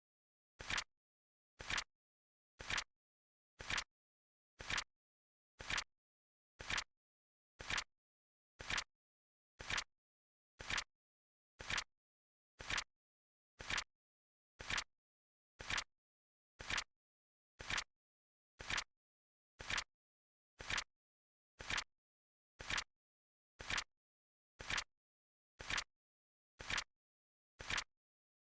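Flip-clock timer sound effect: a short, crisp click of a flipping card, once a second at an even beat, each click the same.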